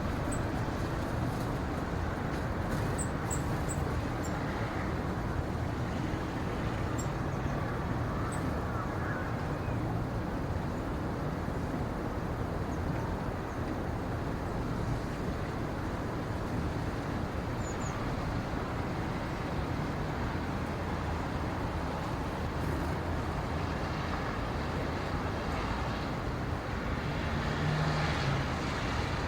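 Steady low rumbling ambient noise with no clear source, broken by a few faint, brief high chirps.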